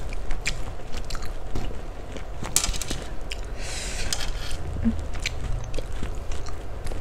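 Close-up eating sounds: chewing of fried Aceh noodles with scattered small clicks, and a fork scraping and stirring through the noodles on the plate, most clearly about three and a half seconds in.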